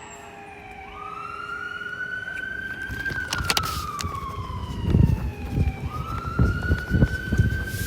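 Fire engine siren wailing, its pitch rising slowly, falling away, then rising and falling again. A heavy low rumble surges underneath in the second half as the truck goes by.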